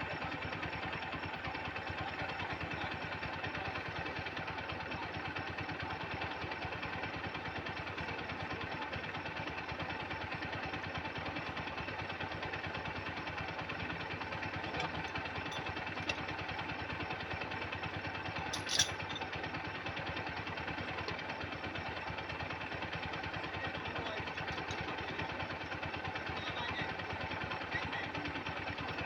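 Swaraj tractor's diesel engine idling steadily, with a single sharp click about two-thirds of the way through.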